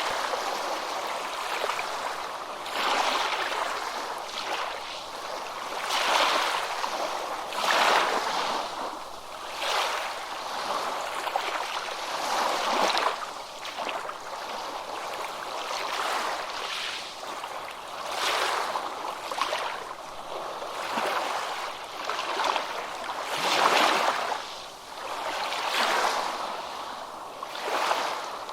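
Ocean surf breaking and washing on a beach: a continuous hiss of water that swells and eases every couple of seconds as waves come in.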